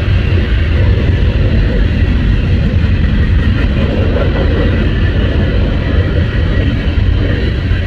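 Norfolk Southern 16Z eastbound freight train rolling past close by, a loud, steady, low rumble.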